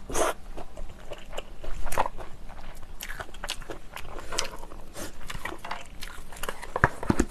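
Close-miked chewing of spicy instant yakisoba noodles, with many small irregular clicks and crunches.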